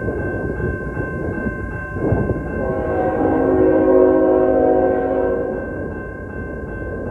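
Freight train diesel locomotive horn sounding one long blast of about three seconds, a chord of several notes, over the rumble of the moving train. A grade-crossing warning bell rings steadily underneath, all picked up by a water-damaged, muffled-sounding microphone.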